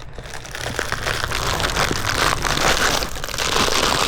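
Crinkling, rustling handling noise, dense with small clicks, as something is worked with the hands.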